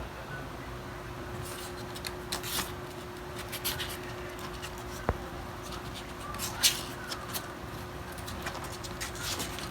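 Faint, short kitten mews now and then over scattered rustling, with a sharp click about five seconds in and a steady low hum underneath.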